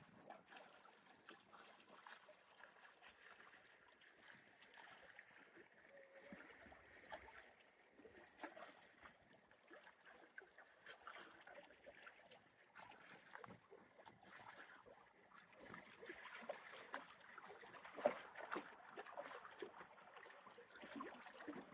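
Near silence: faint, scattered footsteps on a trail, with one sharper knock about eighteen seconds in.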